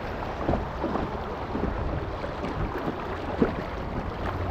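Shallow river water splashing and gurgling around an inflatable kayak as it is paddled, with a steady low rumble of wind on the microphone and one short knock about three and a half seconds in.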